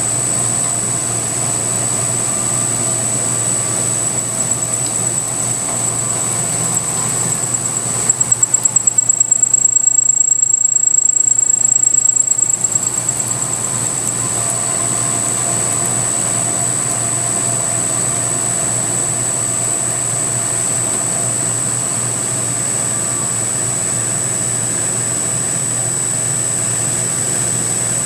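CNC milling machine with a belt-drive spindle running a milling pass, with a steady high whine over an even rushing hiss from the chip-clearing air blower. For a few seconds in the middle the cut gets louder, with a fast pulsing as the cutter bites harder.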